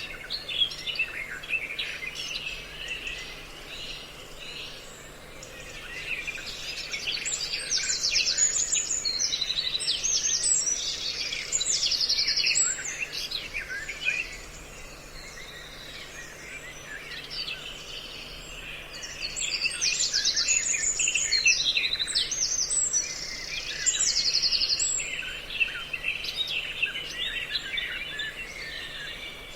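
Songbirds calling and chattering together, a mix of lure calls used for bird trapping: quick chirps with rapid buzzy trills, growing denser and louder in two spells before easing off again.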